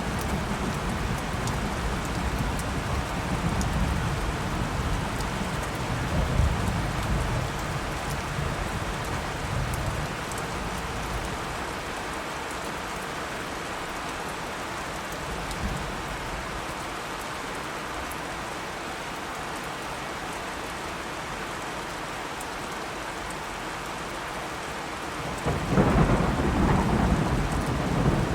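Steady rain with thunder: a low rumble of thunder over the first third fades away, leaving rain alone, then a fresh, louder thunderclap breaks in near the end and keeps rumbling.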